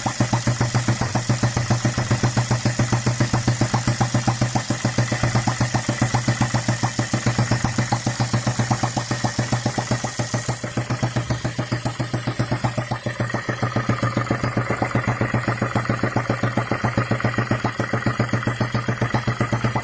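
Small four-stroke petrol engine running steadily on its first run, its firing pulses coming in an even rhythm.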